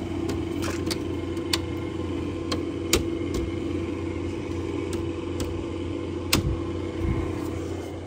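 Window air conditioner running, a steady motor hum, with scattered clicks and knocks from its plastic front panel being handled and fitted back on.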